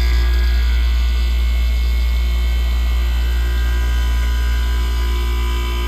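1978 Comfort-Aire Quietmaster 29,000 BTU room air conditioner running just after start-up: its compressor and fan give a loud, steady low hum with steady higher tones over it, easing slightly near the end.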